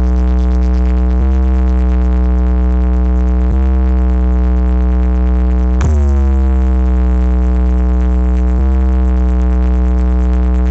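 Loud electronic music played through a DJ speaker setup: deep, sustained bass tones under a synth chord that is struck afresh about every two and a half seconds.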